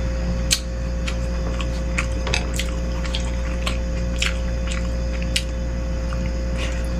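Close-miked eating of beef rib meatball soup: scattered wet chewing and mouth smacks with a few short, sharp clicks, over a steady low hum.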